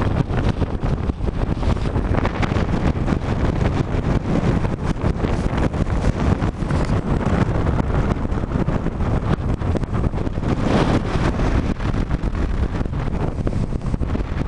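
Wind blowing hard across the camera microphone on deck, a steady low rumbling noise that swells now and then in gusts.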